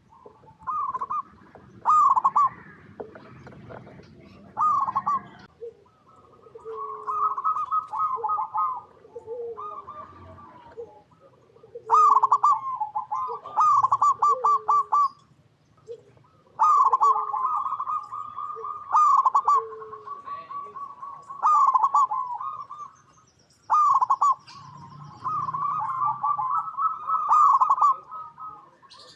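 Zebra dove (perkutut) calling: repeated phrases of rapid staccato cooing notes, one phrase every few seconds, with short lower coos between them. Faint high chirps of small birds sound in the background.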